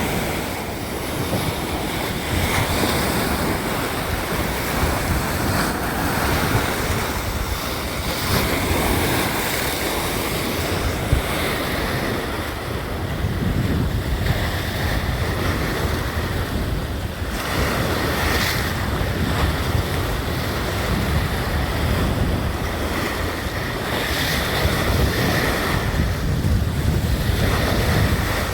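Sea waves washing ashore in a steady, swelling surf, with sea wind buffeting the microphone in a low rumble.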